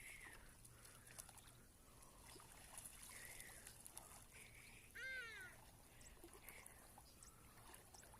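Quiet outdoor ambience with faint, repeated animal calls, and one clearer call about five seconds in that rises briefly and then falls away.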